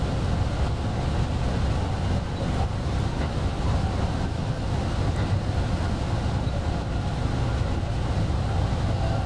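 Steady running noise of a JR West 223 Series electric train, heard from the cab: a continuous low rumble with wind and rail noise.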